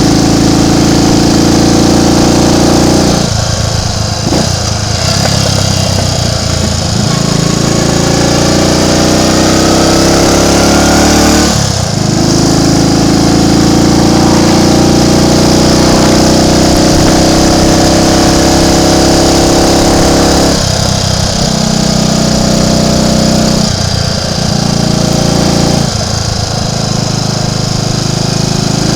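Triumph Tiger Cub's single-cylinder four-stroke engine pulling the motorcycle along under way. The engine note climbs steadily as it accelerates and drops away briefly several times, as at gear changes or when the throttle is shut.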